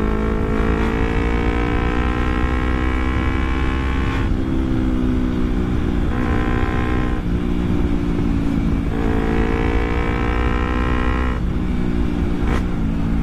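Carburettor Kawasaki Ninja 250's parallel-twin four-stroke engine through an Akrapovic exhaust, revving up and dropping back three times, with a short blip near the end.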